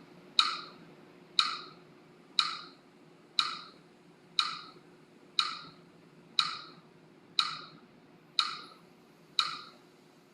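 Metronome ticking steadily, about one sharp, briefly ringing tick a second, pacing the count for slow breathing.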